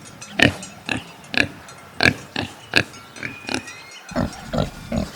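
Domestic pig grunting: a string of short grunts, about two a second.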